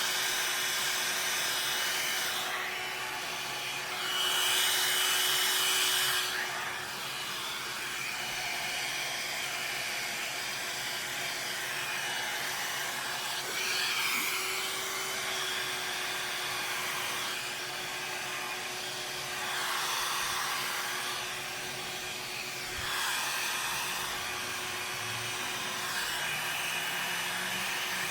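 Hair dryer running steadily, blowing wet acrylic paint across a wooden surface in a Dutch pour, with a faint hum under the rush of air. The air noise swells louder a few times, around four to six seconds in and again twice near the end.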